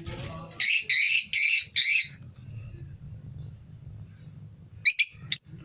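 Lovebirds calling: four loud, shrill chirps in quick succession about half a second in, then a few short, sharp calls near the end.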